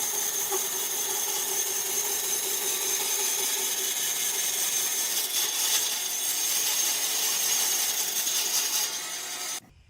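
Power tool cutting wood, running steadily with a constant whine, then cut off abruptly near the end.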